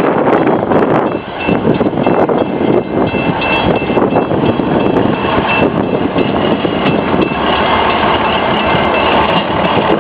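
Small railway locomotive running as it pushes a caboose along the track, with a faint steady high squeal starting about a second and a half in.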